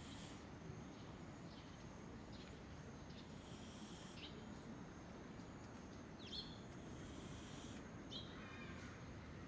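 Faint outdoor background with a few short, high bird chirps scattered through it.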